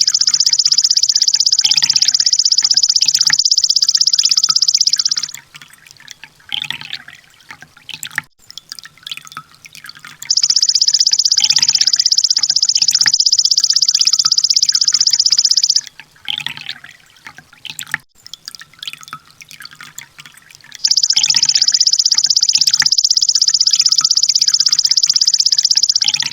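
Sunbird (kolibri ninja) song in rapid-fire 'tembakan' style: three long, high, very fast trills of about five seconds each, with softer chirps in the gaps between them.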